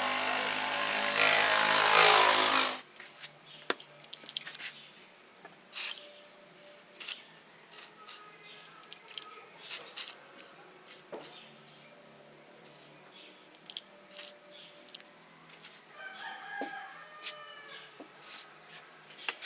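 A motorcycle engine running loudly for the first few seconds, then cutting off abruptly. After that come scattered sharp clicks and taps, and a rooster crows near the end.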